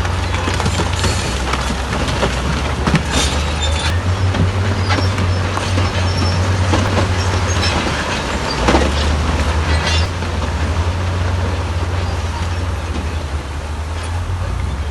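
Heavy diesel earthmoving machinery running under load with a deep, steady engine rumble, with scattered knocks and clanks of metal and rock, the loudest about three seconds and about nine seconds in.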